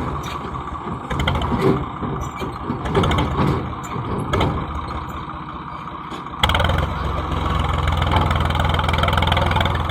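Tractor diesel engine running unevenly. About six seconds in, the sound jumps abruptly louder and settles into a steady idle.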